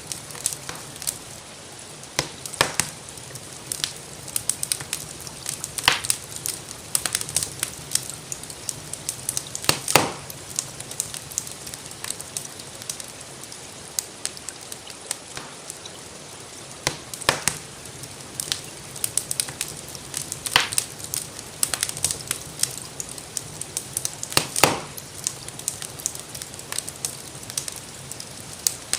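Wood fire crackling in a fireplace: a constant patter of small snaps with a handful of louder pops, over a steady soft hiss of rain.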